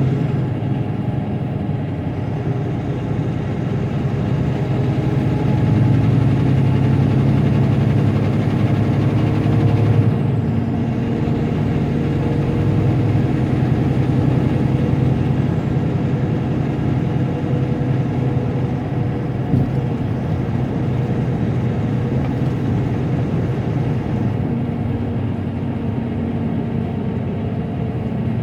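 Semi truck's diesel engine running steadily on the highway, a low hum with a faint high whine above it. The engine note dips and changes about ten seconds in.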